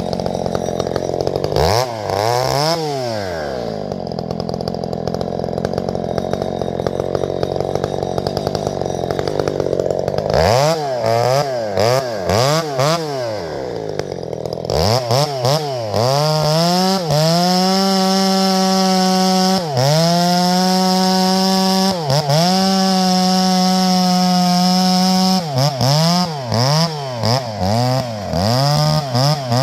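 Two-stroke chainsaw idling and blipped up and down several times, then held at high revs for about eight seconds with two brief dips, then blipped again near the end.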